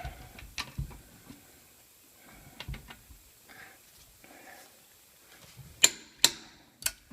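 Click-type torque wrench on a car's lug nuts: faint ratcheting and handling, then three sharp clicks in quick succession about six seconds in. The clicks are the wrench signalling that the nut has reached its set torque of 100.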